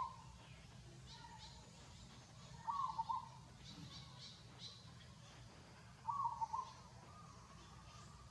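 A short animal call of a few quick notes, repeated twice about three seconds apart, with faint higher chirps between and a low steady hum underneath.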